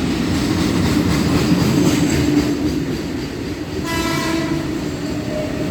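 Indian Railways freight train hauled by an electric locomotive, running past with a steady loud rumble of wheels and wagons. A brief horn blast sounds about four seconds in.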